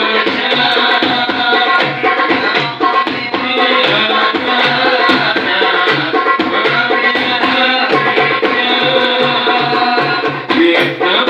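Hadroh ensemble performing: rebana frame drums beat a steady rhythm of about two low strokes a second under a dense melody.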